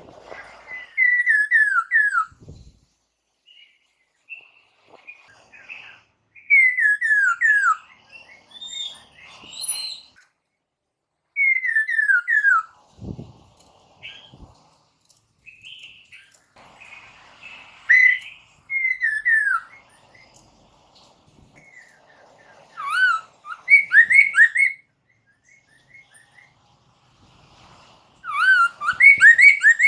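Poksay mandarin laughingthrush singing: loud phrases of four or five quick, clear whistled notes, each sliding downward, repeated every few seconds with softer chatter between. A dull low thump sounds twice, near the start and about halfway through.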